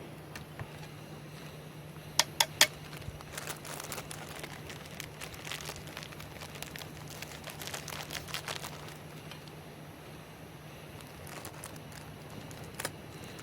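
Crinkling and rustling of something being handled, with three sharp clicks in quick succession about two seconds in, over a steady low hum.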